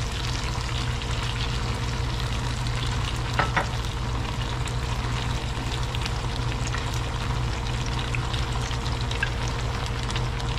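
Sweet chili sauce sizzling and crackling as it is poured into a hot stainless steel skillet of sautéed onion, garlic and ginger, over a steady low hum. A brief knock about three and a half seconds in.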